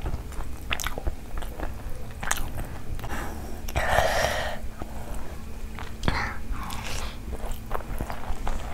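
Close-miked chewing and mouth sounds of someone eating rice and curry by hand: many short wet smacks and clicks. About four seconds in comes a louder, longer squelching rustle as fingers mix rice into curry on the plate.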